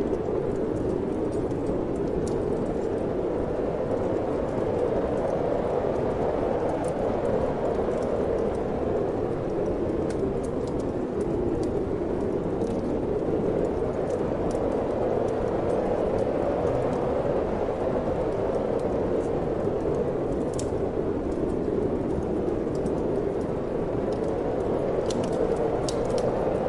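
Wind blowing steadily with slow swells, over the scattered small pops and crackles of a wood fire in a fireplace.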